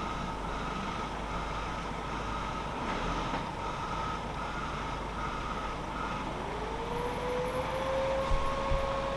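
Delivery van manoeuvring on a narrow road: reversing beeps sounding at an even pace for the first six seconds, then a whine that rises in pitch and holds steady as the van drives.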